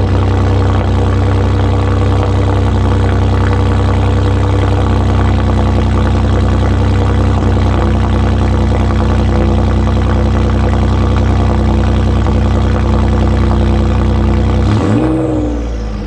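Straight-piped exhaust of a 2012 Ford F-150's 3.5L twin-turbo EcoBoost V6, with catless downpipes and no mufflers or resonator, running with a loud, steady low drone. Near the end the engine note shifts and briefly drops in level.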